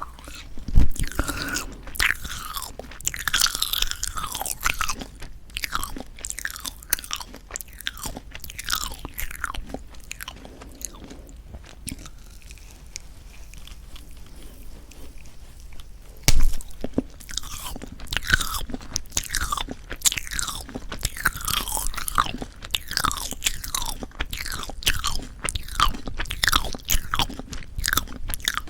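Close-miked chewing of a tough, rubbery owl-shaped marshmallow pop: dense sticky, wet smacks and clicks, quieter for a few seconds in the middle. Two sharp louder knocks come about a second in and again about 16 seconds in. The marshmallow is so tough probably because it was stored badly.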